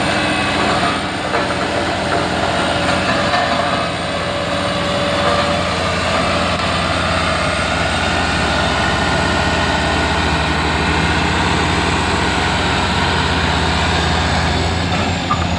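Heavy vehicle engines running steadily, with a low hum and a higher whine that drifts slowly in pitch.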